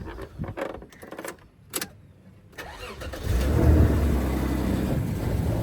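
A few light clicks, then a Toyota Mark X's engine is cranked and catches about three seconds in, settling into a steady idle. The engine has a misfire, which the owner calls a bad one.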